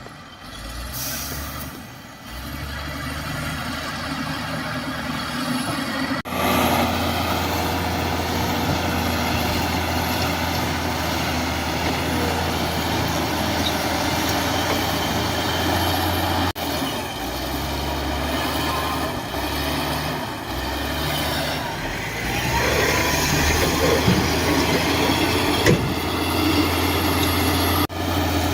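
Heavy diesel machinery engine running steadily with a low drone and broad mechanical noise, getting louder about six seconds in.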